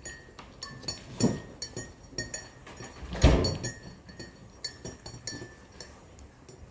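A metal spoon repeatedly clinking and scraping against a plate during a meal of rice and egg, in short ringing taps. There is a louder dull thump about three seconds in.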